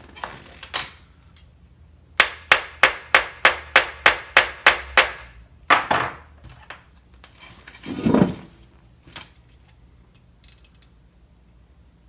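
A small hammer tapping quickly on metal during work on a broken chainsaw bar stud: about ten sharp strikes in three seconds, then two more, and a duller knock about eight seconds in.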